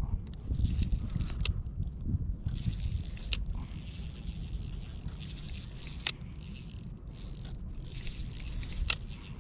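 Rod-and-reel handling during a fight with a hooked carp on an ultralight spinning rig: a low rumble of handling and movement on the microphone, with a few scattered sharp clicks.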